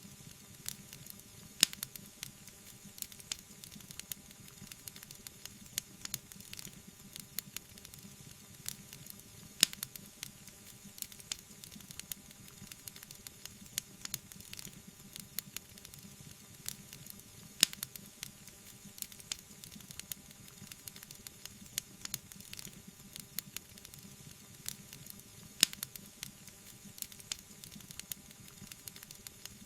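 Wood fire crackling: a steady soft hiss with frequent small, irregular snaps, and a few louder pops about every eight seconds.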